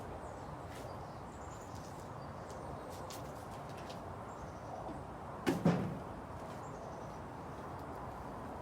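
Plastic motor-oil bottles handled while topping up an engine through a funnel: a pair of short hollow knocks about five and a half seconds in, over steady low background noise.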